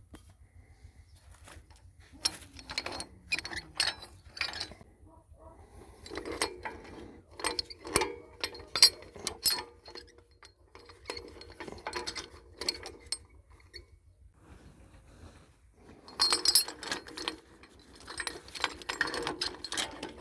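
Metal tools and parts clinking and clanking in irregular bursts of sharp taps and knocks, some ringing briefly, from hand work dismantling a tractor for engine removal.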